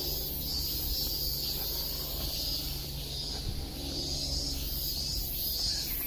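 Insects singing in a chorus of high-pitched, pulsing waves that swell and fade about once a second, over a steady low hum.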